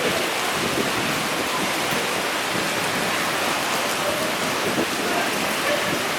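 Steady rain falling and spattering on surfaces, an even hiss with no breaks.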